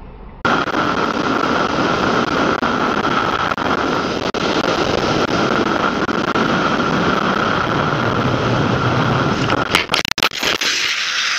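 Motor vehicle running at speed, a loud steady rush of engine and road noise that cuts in abruptly about half a second in. Near the end it is broken by a cluster of sharp knocks and dropouts.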